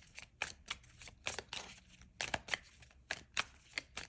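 Tarot cards being handled and shuffled by hand: a run of irregular papery snaps and flicks, a few a second.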